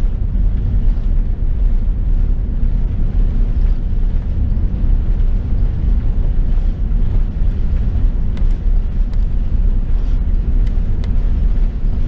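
Steady low rumble of an Airbus A380 heard from inside the passenger cabin, with a few faint ticks about two-thirds of the way through.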